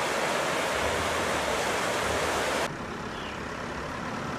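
Steady rushing hiss of flowing creek water, which cuts off abruptly about two-thirds of the way in to a quieter, duller background rumble.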